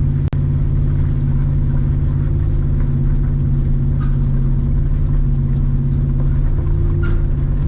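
Truck engine running steadily while driving, with a low, even drone heard from inside the cab.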